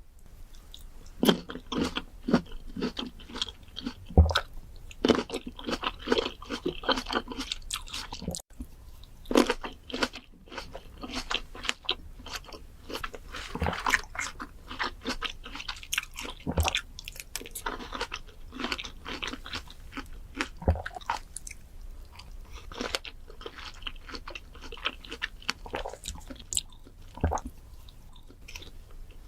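Close-miked bites into fruit, crisp crunches followed by wet chewing, coming irregularly every second or so, with a brief break about eight seconds in.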